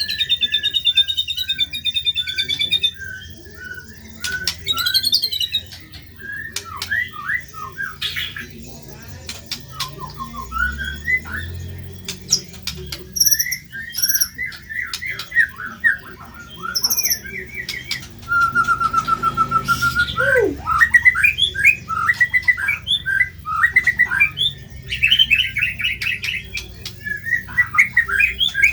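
White-rumped shama (murai batu) singing a long, varied song: quick chirps and trills, harsh squawk-like notes, a held whistle about two-thirds through followed by a falling sweep, and a fast buzzy trill near the end.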